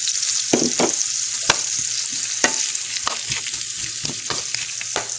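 Sliced onions sizzling as they fry in melted butter over high heat, a steady hiss. Irregular clicks of a utensil stirring against the pan are heard every half second or so.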